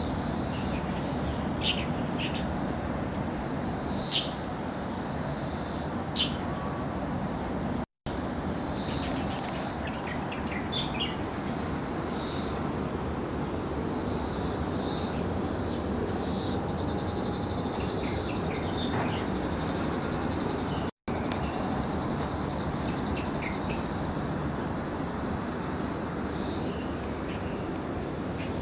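Birds chirping in the trees, short high calls every second or two, over a steady background hiss. A steady high buzz joins them for a few seconds past the middle, and the sound drops out briefly twice.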